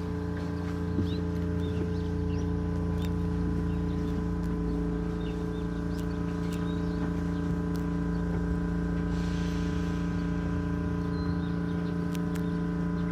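Steady multi-tone electrical hum of an Ichibata 7000-series electric railcar standing at a station, with small birds chirping faintly now and then.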